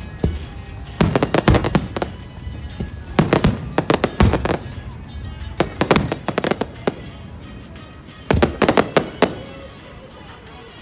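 Aerial fireworks going off in clusters of sharp bangs and crackles, six or so bursts with short gaps between them.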